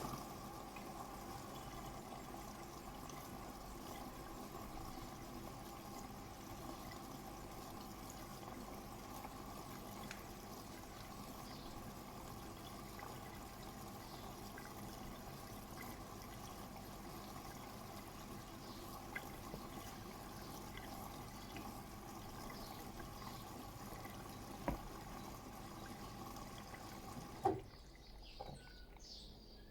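Bosch WAT286V0 washing machine taking in water: a steady rush of inflowing water with a faint even hum that cuts off suddenly near the end, with a short knock just before.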